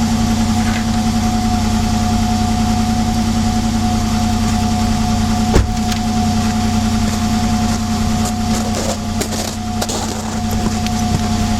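Old Trusty's engine idling steadily while warming up after a cold start in sub-zero weather, with one sharp knock a little past halfway.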